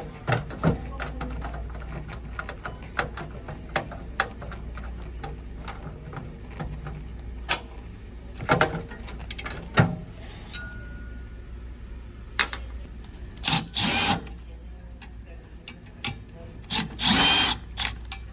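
Hands-on work on an ice machine's condenser: scattered metallic clicks and knocks, with two louder short rushing bursts near the end, over a steady low hum.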